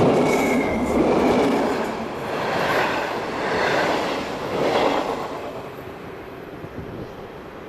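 A train running by on the rails, a loud rumble of wheels with some brief high squeal, dying away about five seconds in.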